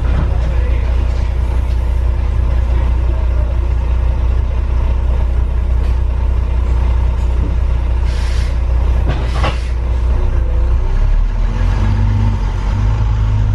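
Heavy diesel road vehicle running with a steady low rumble, with two short hisses about eight and nine seconds in. The engine note changes about eleven seconds in.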